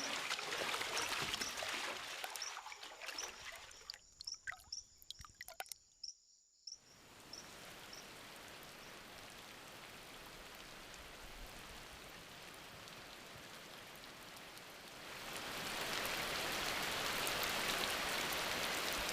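Water splashing and pouring, breaking into scattered drips and clicks and then cutting out briefly. A steady hiss of tropical rain follows and grows heavier about three-quarters of the way through, into a downpour.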